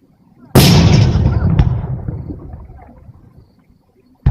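Firework shell bursting with a loud boom about half a second in, its rumble dying away over about three seconds, with a sharp crack partway through. Another bang comes just at the end.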